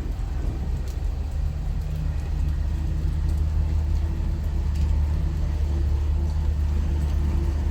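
A large engine running steadily with a low drone that grows a little stronger about two seconds in, and scattered ticks of rain falling over it.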